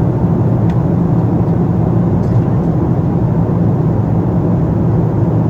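Steady cabin noise inside a Boeing 777-200 in flight: a loud, even low drone of engines and airflow.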